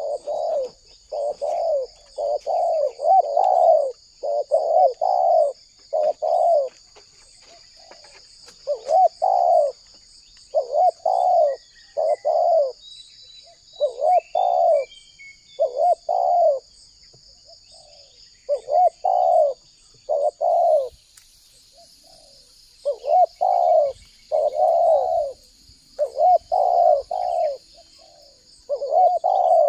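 Spotted dove (tekukur) cooing: repeated phrases of low, rolling coo notes, separated by short pauses of a second or two. A steady high pulsing trill runs behind.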